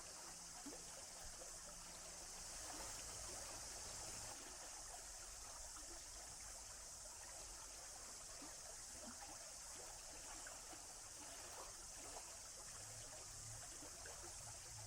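Faint, steady trickling of a small forest stream running over stones.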